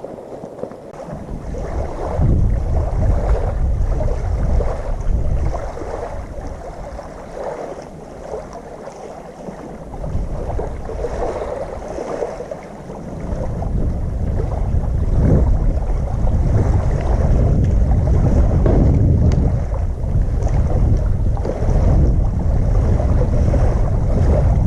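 Wind buffeting the microphone in gusts: a low rumbling noise that eases for a few seconds midway and then strengthens again.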